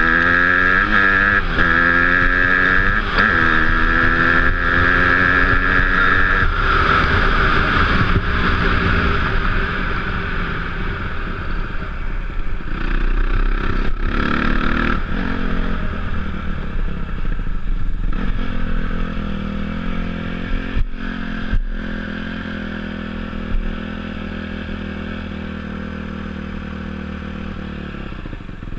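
Dirt bike engine pulling through the gears, its pitch climbing and then dropping with each shift several times, before settling into a steadier, lower run. Two sharp knocks come about three quarters of the way through.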